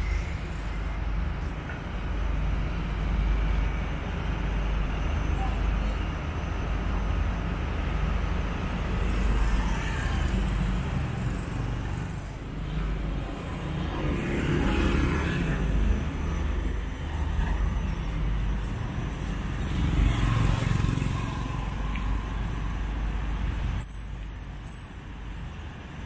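Street traffic: motor vehicles running and passing under a steady low rumble, with louder passes about halfway through and again around three-quarters of the way. A few short high beeps near the end.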